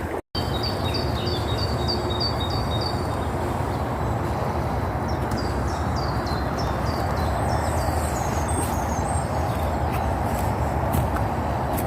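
A small bird singing runs of short, repeated, falling high notes, one run near the start and another from about five to nine seconds in, over a steady low rumble and hiss.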